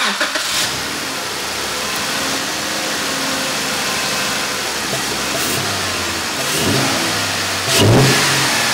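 A 2012 Jeep Wrangler's 3.6-litre V6 catches and starts, settles into a steady idle, and is revved briefly near the end, breathing through a freshly fitted Flowmaster Delta Force cold air intake. It runs with no whistle or extra noise from the new airbox.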